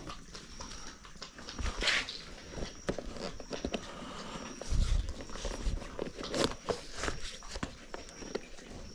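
A horse moving about, with scattered steps and knocks and one heavy low thud about five seconds in. A short high chirp repeats about once a second.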